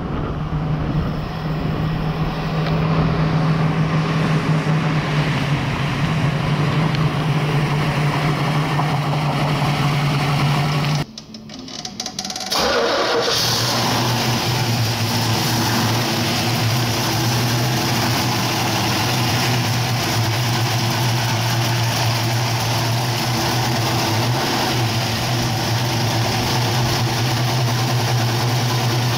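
1969 Camaro Z/28's 302 small-block V8 with cross-ram dual four-barrel carburettors, running at a steady note. There is a brief break about eleven seconds in, after which the engine idles steadily at a slightly lower pitch.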